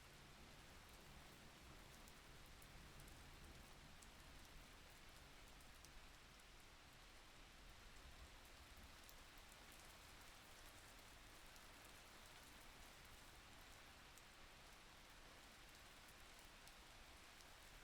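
Faint, steady rain: an even hiss with light ticks of drops.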